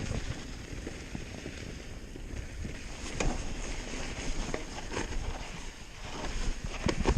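ALUBIKE hardtail mountain bike rolling fast down a rough dirt trail: tyre noise and wind on the microphone, with irregular knocks and rattles as the unsuspended frame hits bumps, a quick cluster of hard knocks near the end.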